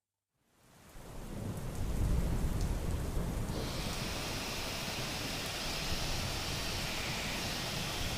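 Heavy rain and thunder fading in, with a low rolling thunder rumble strongest in the first few seconds and a steady hiss of rain. A higher hiss joins abruptly about three and a half seconds in.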